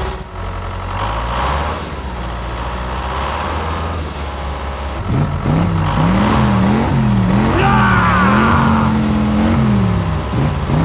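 A motor running: a steady low drone at first, then about five seconds in its pitch starts rising and falling over and over.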